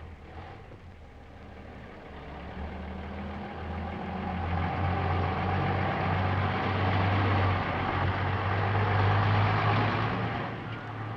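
A truck's engine running with a steady low hum and road noise that grows louder over several seconds, then falls away near the end.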